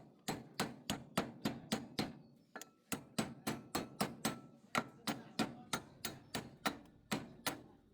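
Steady hammering, about three sharp blows a second, with a brief pause a little before the three-second mark.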